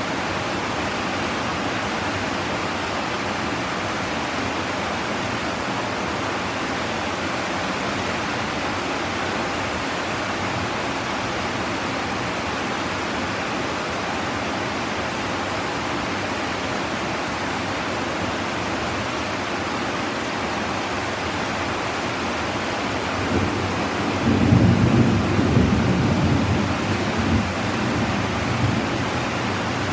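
Heavy rain falling steadily in a thunderstorm, with a roll of thunder rumbling in about 23 seconds in, loudest for a couple of seconds, then dying away over the next few.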